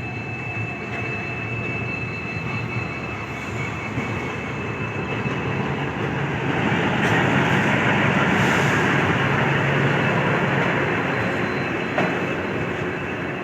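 Passenger express train moving along a station platform: a steady rumble of wheels and coaches with a thin high whine, growing louder from about halfway through, then easing near the end.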